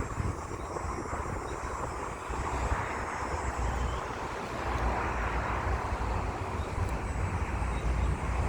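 Steady, distant engine rumble, most likely an aircraft passing overhead, swelling slightly louder partway through.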